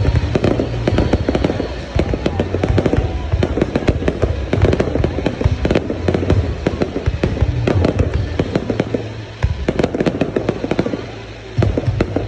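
Fireworks display going off, with a dense run of overlapping bangs and crackles that thins out briefly near the end before another burst.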